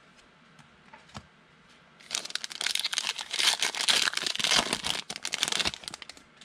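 Plastic wrapper of a football trading-card pack crinkling loudly as it is torn open and handled. It starts about two seconds in and lasts about four seconds, after a few faint clicks of cards being handled.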